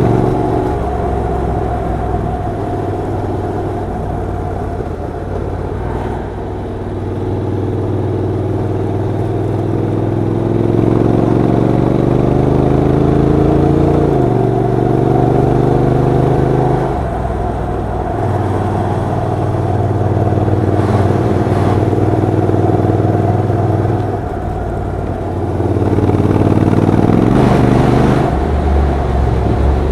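Honda NC750X DCT's parallel-twin engine and exhaust under way on the road, the engine note climbing as it accelerates and dropping suddenly at gear changes, about halfway through and again a few seconds later.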